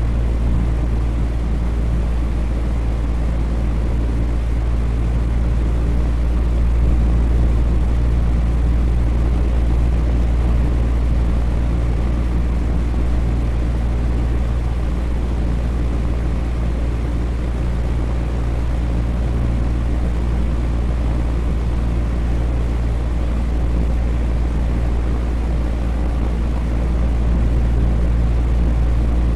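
Electric fan running steadily: an even rush of air over a strong, deep, constant hum.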